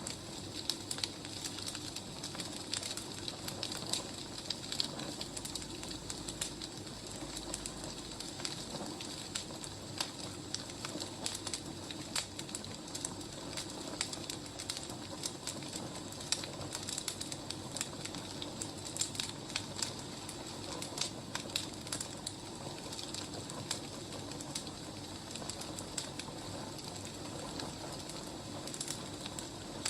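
Wood fire crackling, with frequent irregular sharp pops over a steady hiss.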